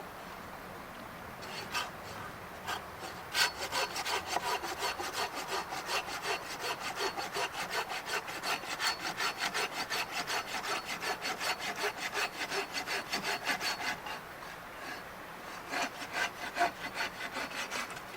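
Hand saw cutting through firewood in quick, even back-and-forth strokes, which run for about ten seconds, stop briefly, then resume for a few more strokes near the end. The long-bladed saw cuts easily, with about half the effort of a small saw.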